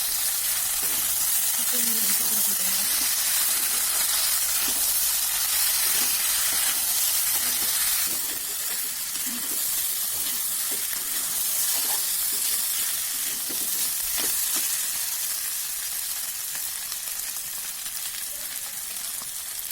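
Chicken curry sizzling steadily in hot mustard oil in a pan, with faint scattered clinks and scrapes of stirring. The sizzle eases a little about eight seconds in.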